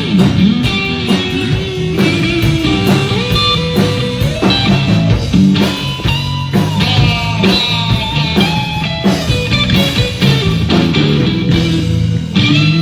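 A live band plays a rock-blues song: electric guitar over bass and a steady drum beat.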